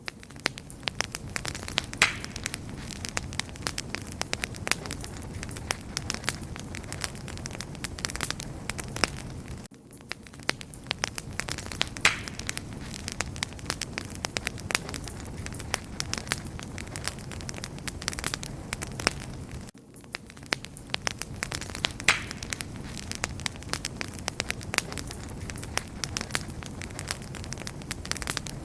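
A wood fire crackling and popping steadily, with dense small snaps and a few louder pops over a low hiss. The same ten-second stretch repeats about three times, each time after a brief dip in level.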